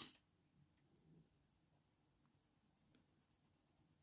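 Near silence, with the faint scratch of a coloured pencil shading on paper.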